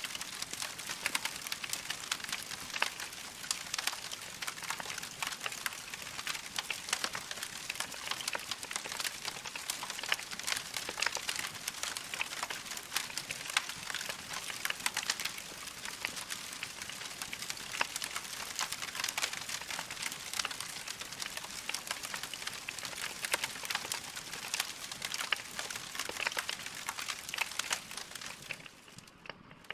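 Wood fire crackling steadily, a dense run of small pops and snaps, briefly dipping in level near the end.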